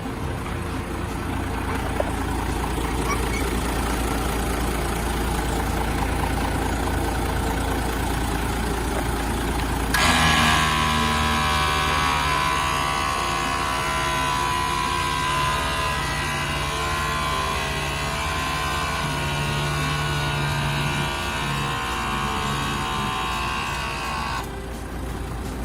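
Isuzu Giga heavy truck's diesel engine running steadily. About ten seconds in, the sound changes abruptly to a louder run with a wavering whine of several tones over it, which cuts off shortly before the end.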